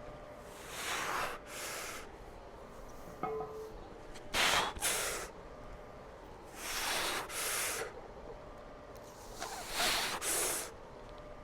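A person breathing hard from exertion, with a quick pair of loud breaths about every three seconds, four times.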